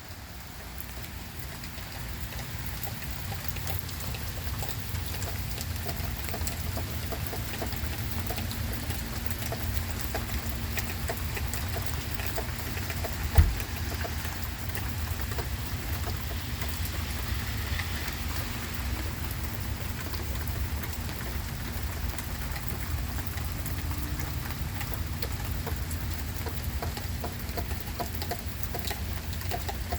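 Steady rain falling, with fine drop patter throughout, and a single thump about halfway through.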